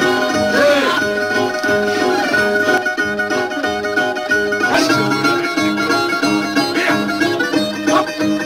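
Greek bouzouki music: a quick plucked-string melody over evenly repeating bass notes.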